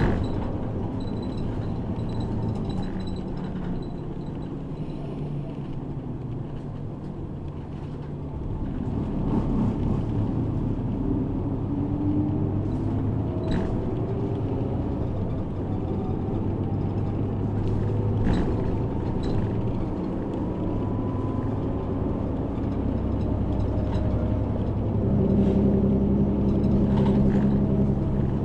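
City bus engine running as heard inside the cabin, with a steady rumble. The engine pitch rises and shifts about a third of the way in as the bus pulls away, and settles to a steadier tone near the end. There are a few sharp knocks or rattles along the way.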